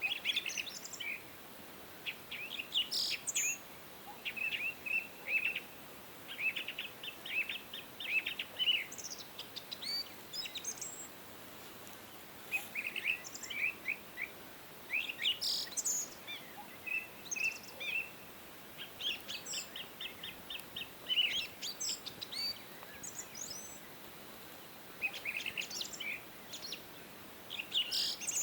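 Several songbirds singing and chirping: short trills and quick chirps, many notes repeated rapidly, over a faint steady background hiss.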